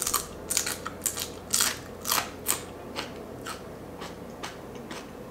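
A crispy fried fish fin being chewed: a run of sharp crunches, about three a second, growing fainter after about three seconds.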